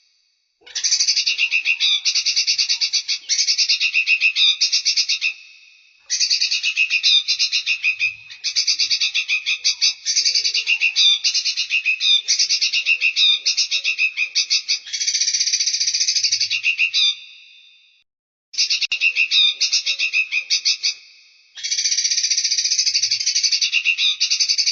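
Songbird song recorded for bird training: fast, rattling trills, high-pitched, in bouts of several seconds with short pauses between them.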